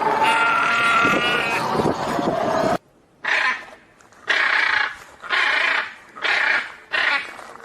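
Animal calls: one long, wavering call that cuts off abruptly, then five short calls about a second apart.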